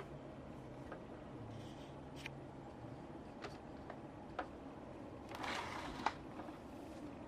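Maspion 12-inch box fan running with a steady whoosh of air. Several small sharp clicks are spread through, and a brief rustle ends in a sharper click about six seconds in.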